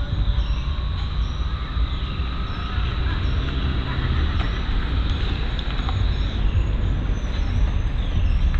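Wild birds calling, with repeated short falling chirps and one held whistle early on, over a steady low rumble.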